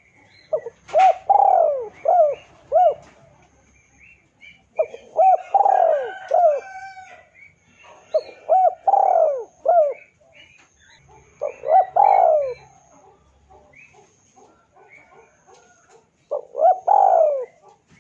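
Spotted dove cooing: five phrases of several low, arching coo notes, repeated every few seconds. It is a lure call used to provoke rival doves into answering.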